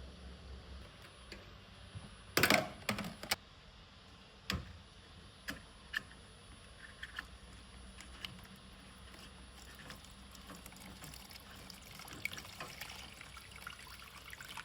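Water splashing and pouring in a brief loud burst, then sharp knocks and a scatter of small drips and trickles, while a washing machine is being cleaned.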